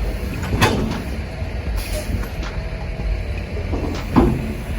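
Heavy truck engine idling with a steady low rumble, with two sharp knocks, one just after the start and one about three and a half seconds later.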